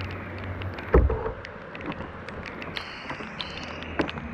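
Handling noises aboard a plastic fishing kayak: a low steady hum cuts off just before a loud knock on the hull about a second in, followed by small clicks and knocks. A faint high whine falls slowly through the middle.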